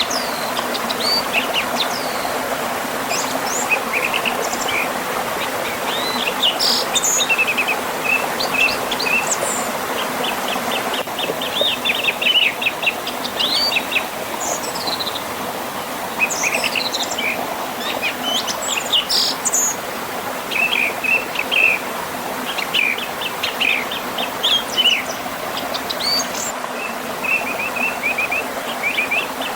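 Several songbirds chirping and singing in quick repeated notes and trills over the steady rush of a river flowing past a small waterfall.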